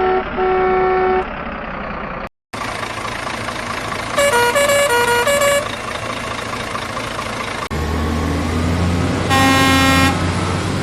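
Truck horns honking over steady vehicle noise: a short horn blast at the start, a horn playing a quick run of alternating notes about four seconds in, and a loud blast near the end. A deep engine rumble comes in just before that last blast.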